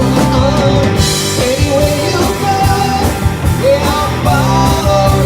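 Rock song with a singer, guitar and drums, played through a car stereo.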